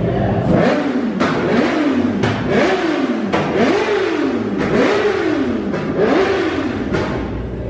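Car engine revved against a two-step launch limiter about once a second: each rev climbs quickly and falls back, with sharp bangs from the exhaust.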